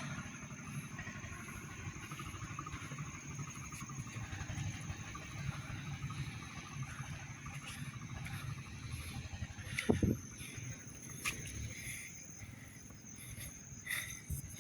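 A vehicle engine running steadily with a low rumble, and one sharp knock about ten seconds in. A thin, steady high tone runs underneath.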